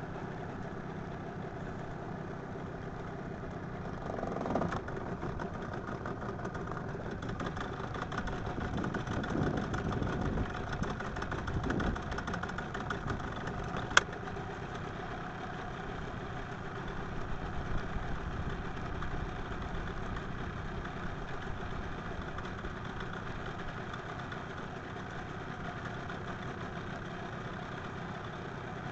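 An engine running steadily at idle, a little louder and busier for several seconds in the first half, with one sharp click about fourteen seconds in.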